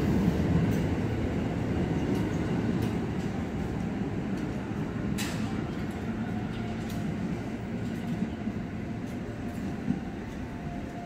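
KRL electric commuter train rumbling out along the platform, the rumble slowly fading as it pulls away, with a few sharp clicks. A faint steady whine runs under it in the second half.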